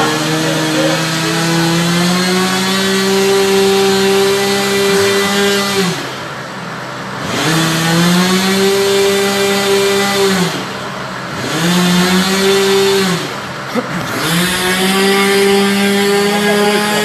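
Small model airplane engine running at high revs, its throttle cut back sharply and opened up again several times, the pitch falling and climbing back each time.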